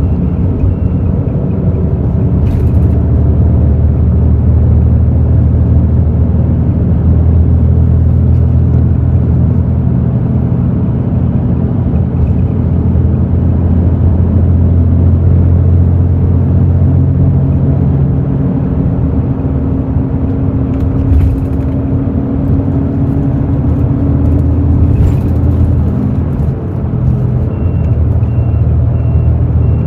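A Hino J08E-VD 7.7-litre six-cylinder diesel in a Hino bus, heard from inside the cabin, running steadily under way with a deep engine drone. Past the middle a higher tone climbs slowly, then drops away with a brief dip in level.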